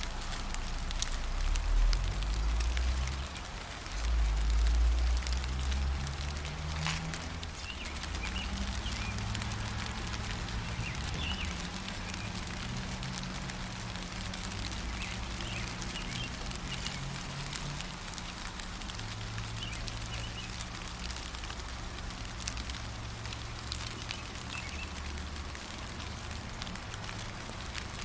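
Steady gentle rain, with drops pattering on surfaces. Small birds chirp faintly now and then. A low rumble swells twice in the first few seconds, then settles to a quieter steady hum.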